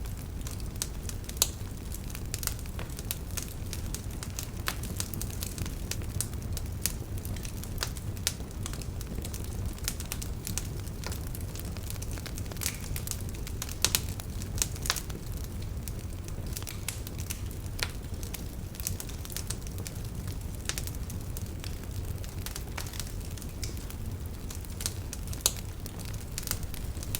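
Wood fire burning in a fireplace: a steady low rumble of flames with irregular crackles and snaps, and a few louder pops.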